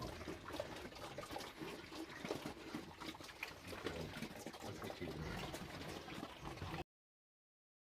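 Water trickling and splashing, with many small clicks, cutting off abruptly near the end.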